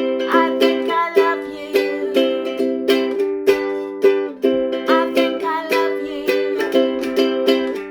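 Ukulele strummed in a steady rhythm, playing chords.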